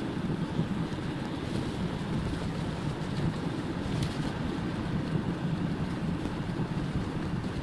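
Steady low rumble of a car on the move: road and wind noise with no break or change.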